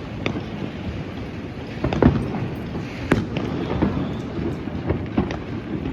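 Fireworks going off: a continuous rumble of bangs and crackling, with the loudest bangs about two and three seconds in.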